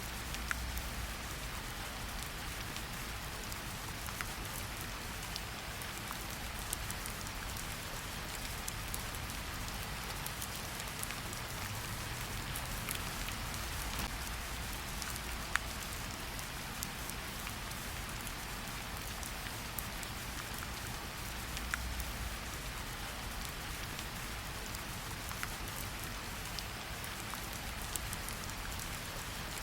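Steady rain falling in a forest, an even hiss with many separate drops ticking close by and a few louder single drops.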